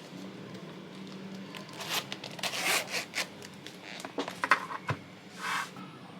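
Small objects being handled at close range: short rustling and scraping sounds with a few sharp clicks, over a low steady hum.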